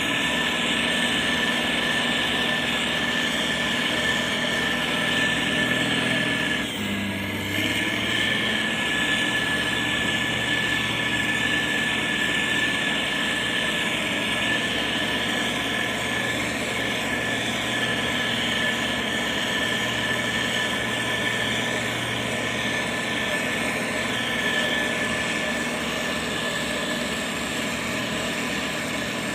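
Motor grader's diesel engine running steadily under work, with a steady high whine over the low engine hum. The sound briefly dips and shifts about seven seconds in, then carries on as before.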